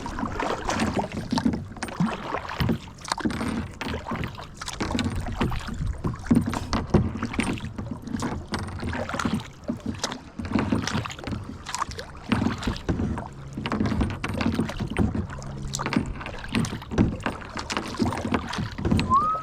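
Kayak paddling: paddle strokes splashing in the water, with irregular splashes and knocks through the whole stretch.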